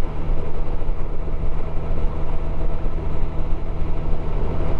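Motorcycle engine running steadily at road speed, with wind and road noise from the ride.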